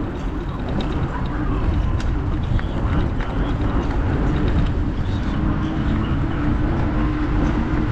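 Riding noise from a motor-driven bike underway: a steady low rumble of road and wind with a faint even hum.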